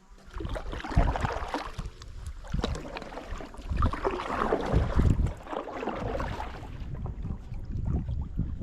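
Wind buffeting the microphone in gusts, over the splash and wash of water around a kayak moving on a river.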